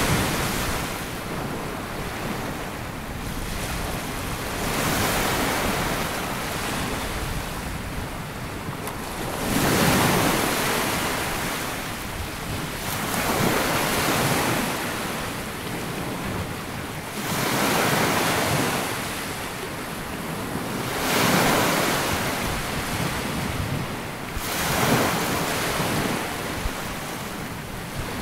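Sea waves breaking and washing up a sandy beach, each surge swelling and ebbing about every four seconds.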